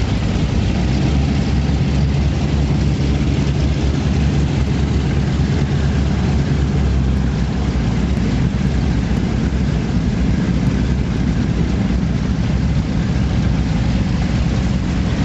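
Performance powerboat's engines running steadily with a loud, deep rumble, under an even rush of wind and water noise.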